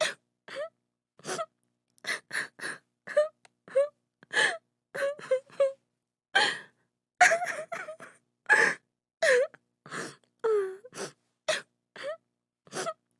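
A woman crying: short sobbing wails and sharp gasping breaths in quick succession, some sobs falling in pitch, with dead silence between them.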